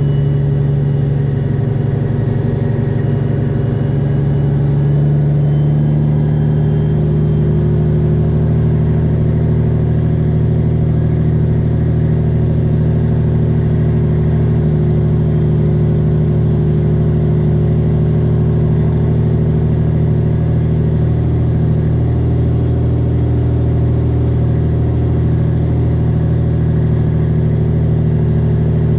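Straight-piped Detroit Diesel 12.7-litre engine of a Freightliner Classic XL semi truck running at low, steady revs, with a slight change in pitch about six seconds in.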